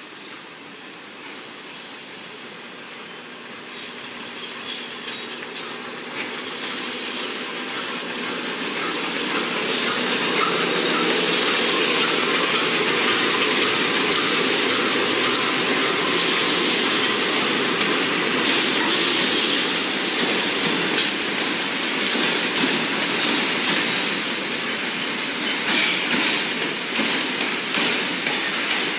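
Diesel-hauled freight train approaching and passing close by. The sound grows louder over the first ten seconds as the locomotive draws near, then the wagons roll past with the wheels clicking over the rail joints.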